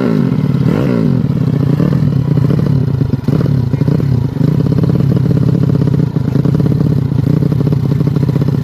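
Yamaha Vega single-cylinder four-stroke motorcycle engine, built up to 200cc with a sleeved bore and a stroked crankshaft, running. Its revs fall back from a blip at the start and rise briefly about a second in, then it runs steadily.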